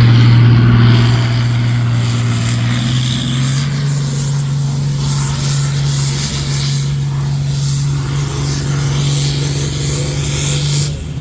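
International Harvester 1066 tractor's turbocharged six-cylinder diesel running hard under load on a pull. It makes a loud, steady drone whose pitch steps up slightly a few seconds in, then drops away just before the end.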